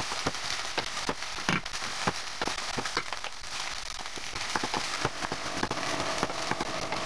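White beans frying with onion and pepper and tomato paste in a stainless steel pot, a steady sizzle full of irregular crackling pops, while a wooden spoon stirs them.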